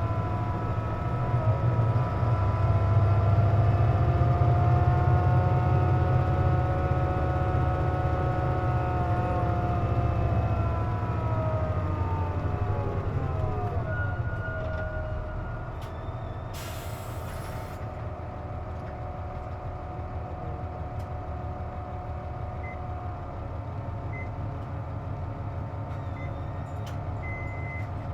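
Interior of a KC-JP250NTN city bus: diesel engine drone with a whining of several tones, the odd noise that comes with the air conditioning running. About 12 to 14 seconds in, the whine slides down in pitch and the sound drops as the bus slows to a stop. A few seconds later comes a short burst of air hiss.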